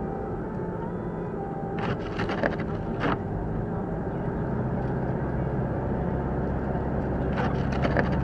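Car driving on a snowy road, heard from inside the cabin: a steady low rumble of engine and tyres, broken twice, about two seconds in and again near the end, by a brief cluster of sharp clicks and knocks.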